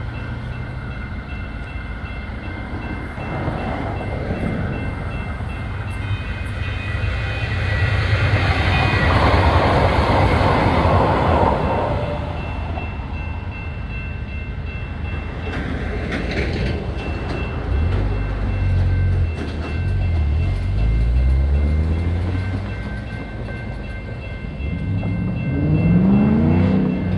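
Light rail train passing through a grade crossing, loudest about a third of the way in, then fading as it moves away. Thin steady high tones run underneath throughout. Near the end a car drives by over the crossing as the gate goes up.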